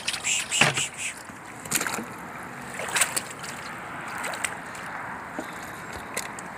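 Water splashing, a few sharp splashes in the first three seconds, then a softer, steady wash of water.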